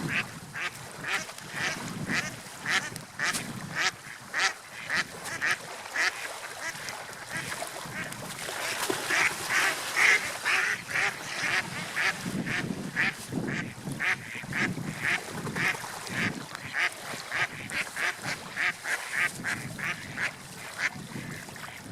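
Waterfowl calling in a rapid, even series of short calls, about two or three a second, swelling louder midway, over a low wash of water.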